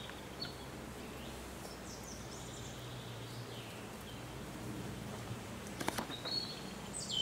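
Songbirds singing in the trees, short high whistled notes and a quick trill near the end, over a steady low outdoor hum, with a couple of sharp clicks about six seconds in.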